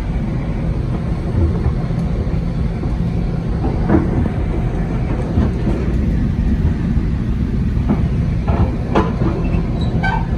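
Inside a Coaster commuter train passenger car while it runs: a steady low rumble of wheels on rail, with a few sharp clicks from the track about four seconds in and again near the end.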